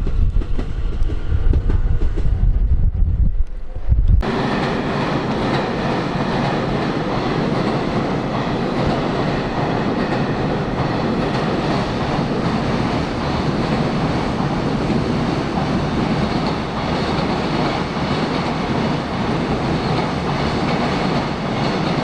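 Wind buffeting the microphone for about four seconds, then a sudden switch to a train running by with steady, loud rail and wheel noise.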